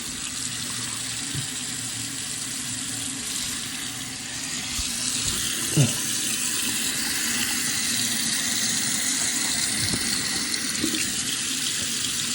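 Water running steadily from a tap into a sink, with a brief knock about halfway through.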